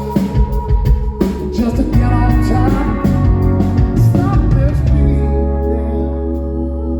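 Live rock band playing full volume on stage, with drums, bass and guitar and a voice. The drum hits stop about five seconds in and a chord is held ringing.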